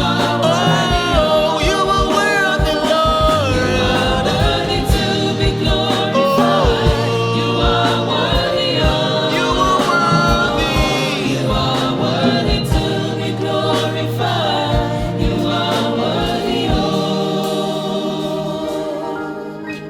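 Gospel worship music: a choir and voices singing over a band with bass and drums. Near the end the drums and bass drop out and the music thins and quietens.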